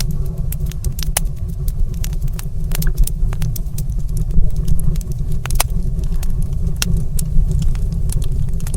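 Fire in a stone fireplace crackling, with frequent sharp pops over a steady low rumble.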